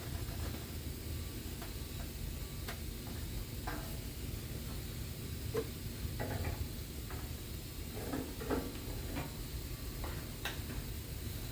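About a dozen light clicks and taps at irregular intervals, typical of hand work with tools and parts, over a steady low hum.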